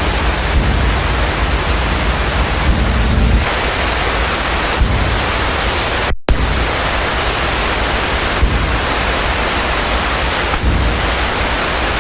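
White noise made in the Auxy music app from a demo sound: a loud, steady hiss, cut off for an instant about six seconds in before carrying on.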